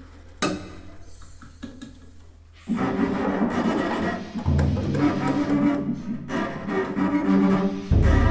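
Contemporary chamber ensemble of violin, flute, clarinet, piano, cello and percussion playing. A quiet passage is broken by a single sharp struck note about half a second in. Around three seconds the ensemble enters loudly, over a low held note that swells strongly near the end.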